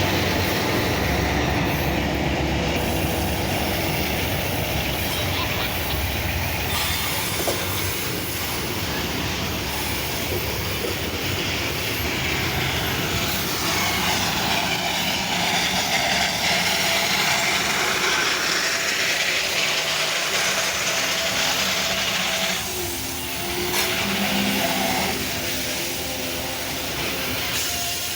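Loaded freight train rolling past on a downhill mountain grade: continuous wheel-on-rail noise with clickety-clack and some wheel squeal.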